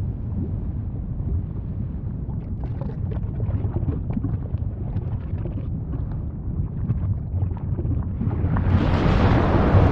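Volcano rumbling, a steady deep roar with scattered faint crackles, swelling into a louder hissing rush near the end.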